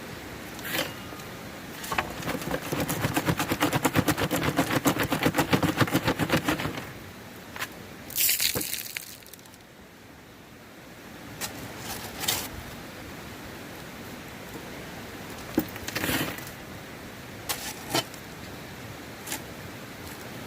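Rocks and gravel clattering in a rapid rattling run for about five seconds, as when gravel is shaken or worked through a screen. This is followed by a short rush of pouring gravel and a few scattered knocks and scrapes of stone.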